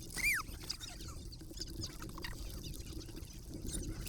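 A short high squeal falling in pitch just after the start, most like a child's voice, then faint water patter and small splashes.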